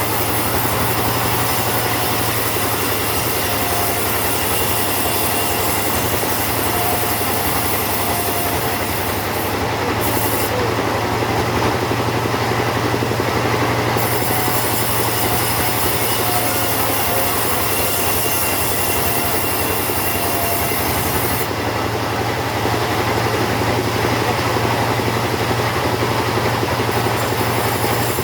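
Two-stroke chainsaw running steadily at high speed, sawing through teak wood. The top of the sound thins briefly twice as the cut changes.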